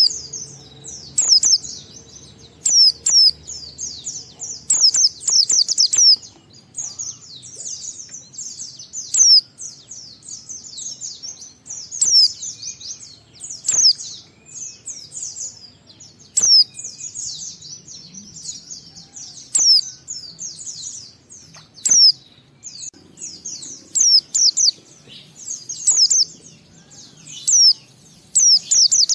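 White-eye (pleci) singing: rapid, high-pitched twittering phrases of quick sweeping notes, coming in short loud bursts every second or two.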